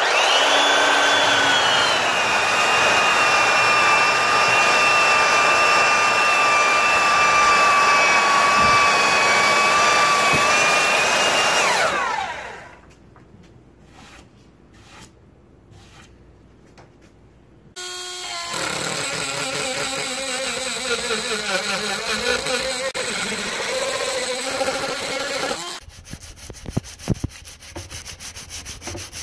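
Electric power tool working wood: a steady motor whine for about twelve seconds that slides down in pitch as the motor spins down and stops. After a quiet pause with a few light knocks, a tool runs again from about eighteen seconds in with a wavering pitch. Near the end comes a quieter fast, even rasping rhythm.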